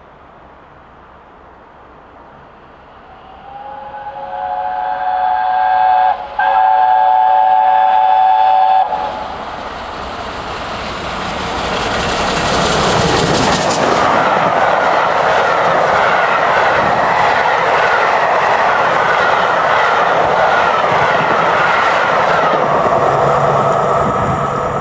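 Peppercorn A1 steam locomotive 60163 Tornado approaching at speed and sounding its whistle in a long, many-toned blast, broken for a moment about six seconds in. About nine seconds in the locomotive passes with a sudden loud rush. Its train of coaches follows at express speed, with a rhythmic clickety-clack of wheels over the rail joints.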